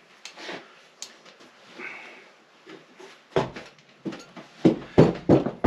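Metal hand tools and engine parts being handled during a motorcycle engine teardown: a series of separate clacks and knocks, sparse at first, then several louder ones in quick succession from about three and a half seconds in.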